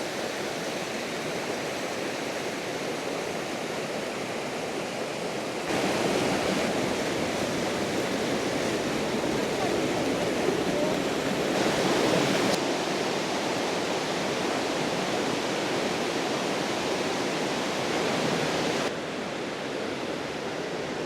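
Steady rush of a waterfall, cut between several shots whose level changes abruptly about six, twelve and nineteen seconds in. The middle shots are the loudest.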